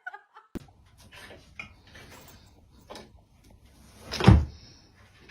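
A few small knocks and light clatter, then one loud, sudden thump about four seconds in.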